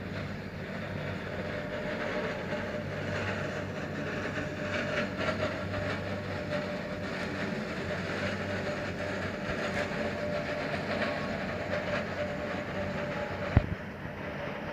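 Indian freight train's wagons rolling past on the track with a steady rumble and clatter of wheels on rail. A single sharp knock sounds near the end.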